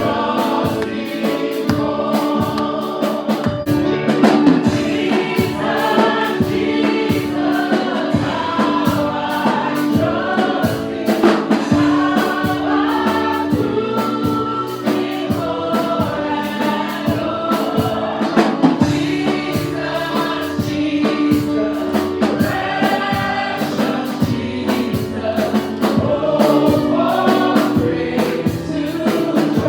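Church choir or congregation singing a gospel worship song with instrumental backing and a steady beat.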